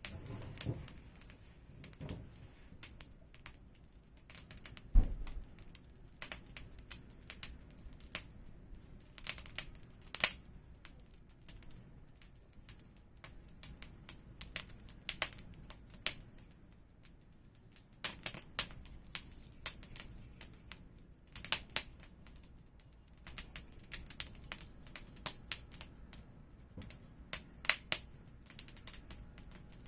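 Wood fire crackling: irregular sharp snaps and pops over a faint hiss, with one louder low thump about five seconds in.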